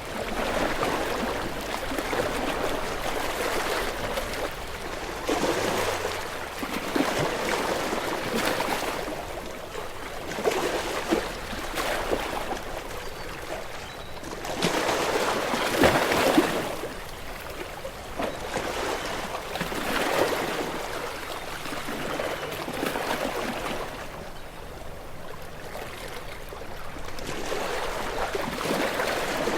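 Gentle sea waves lapping on a shore, each one surging up and falling back every few seconds.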